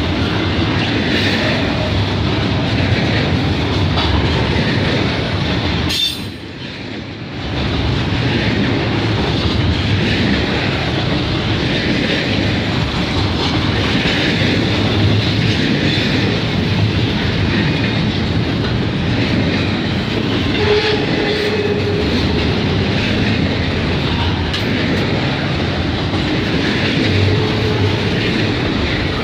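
Double-stack container cars of a CN intermodal freight train rolling past, with a steady rumble and the clickety-clack of wheels over the rail. The sound dips briefly about six seconds in.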